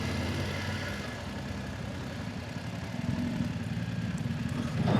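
Motorcycle engine idling with a steady low rumble that eases slightly mid-way and picks up a little after about three seconds.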